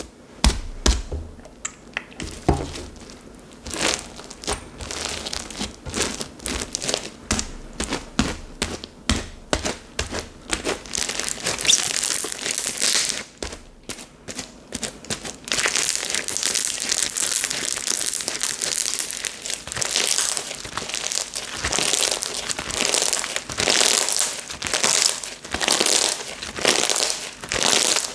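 Hands squishing and pressing soft slime, making sticky crackling and popping clicks. From about halfway through, the crackle becomes denser and more continuous, swelling in a steady rhythm about once a second as the slime is worked.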